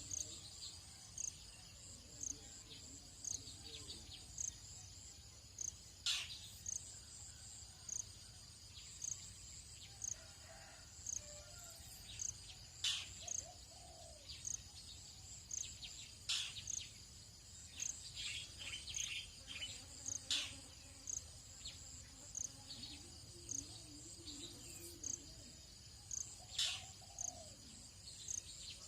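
Tropical dawn insect chorus: a cricket-like insect chirping about every half second over a steady high insect drone. A handful of short, sharp bird calls cut in now and then.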